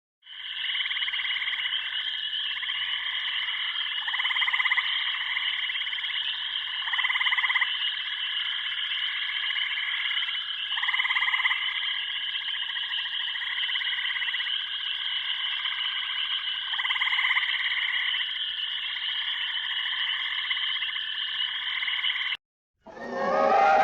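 Toads calling: a steady trilling chorus with louder swells every two or three seconds. It stops abruptly near the end, and a different, louder animal call begins just after.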